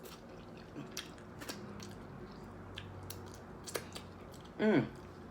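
Close-up mouth sounds of chewing soft food, with scattered wet clicks and smacks. Near the end comes a short voiced sound falling in pitch, the loudest thing here, like a hummed "mm" or a gulp.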